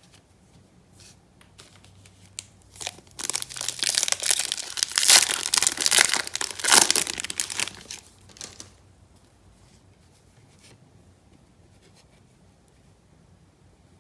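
Foil wrapper of a Topps Chrome trading-card pack being torn open and crinkled by hand. A few light handling clicks lead into several seconds of dense tearing and crinkling, which stops a little past the middle.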